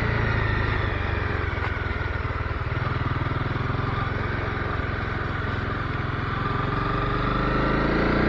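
Honda CB250R's single-cylinder engine running steadily at low revs on the move. Near the end it rises in pitch as the bike accelerates.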